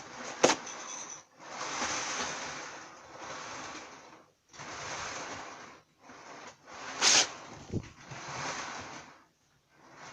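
Two sharp clicks, about half a second in and about seven seconds in, from HO/OO model coaches being handled and coupled together. Soft rushing bursts of noise come and go between them.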